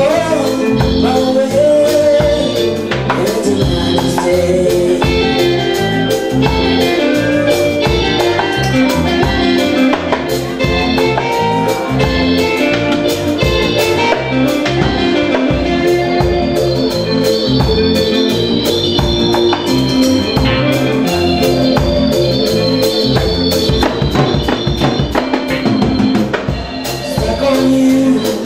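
Live fusion band playing an instrumental passage: sustained organ-like keyboard chords over bass and a steady drum beat.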